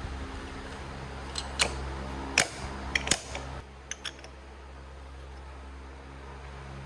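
Several short, sharp clicks and knocks of hand tools and metal parts being handled, bunched in the first half, over a steady machine hum that drops in level about halfway through.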